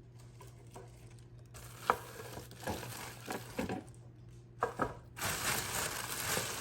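Shop purchases being handled and set down, with a few sharp knocks, then a dense rustle of packaging starting about five seconds in, over a low steady hum.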